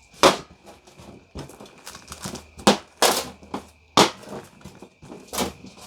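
About five sharp knocks and clacks of utensils being handled and set down on a work surface, with faint rustling between them.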